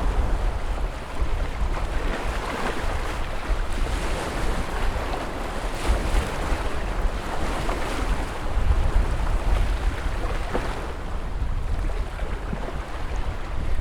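Ocean surf: waves breaking and washing in a continuous rush of water noise, swelling a little around the middle, over a deep steady rumble.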